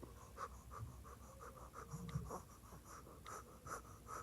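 Faint scratching of short drawing strokes, repeated several times a second, as a cat's face is drawn.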